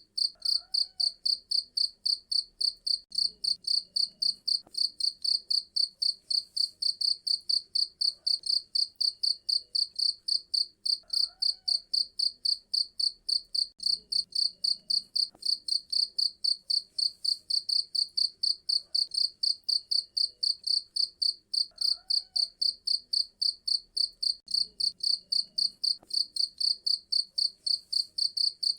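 Cricket chirping in a fast, even, unbroken train of high-pitched pulses.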